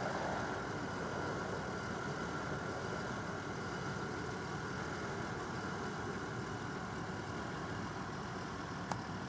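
A steady mechanical rumble, like an engine idling, with a faint steady hum over it and a single sharp click near the end.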